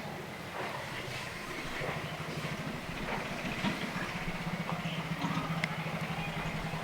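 A steady low engine or motor hum, pulsing evenly, with scattered small clicks and knocks over it.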